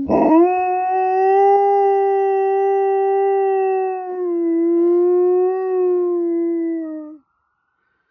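A pet dog howling, wolf-style, in one long, steady-pitched howl that holds for about seven seconds, wavers briefly about four seconds in, and then stops.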